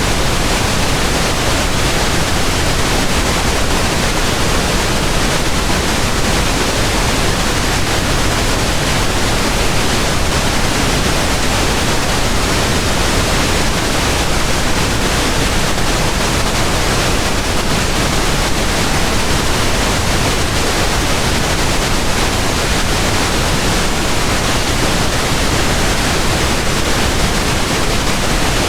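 Steady, unbroken pink noise: an even hiss spread across all pitches, with no changes or events.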